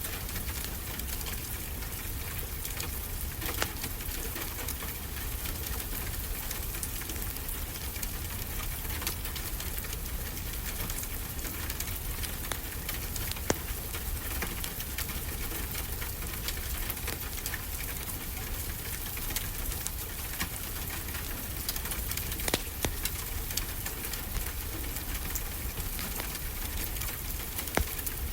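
Steady rain falling, with the occasional sharp crackle or pop of a wood fire in a fireplace, a handful of them spread through.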